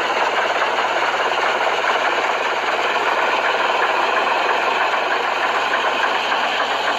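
Heavy machinery running: a steady engine noise mixed with constant mechanical clatter, holding at an even level.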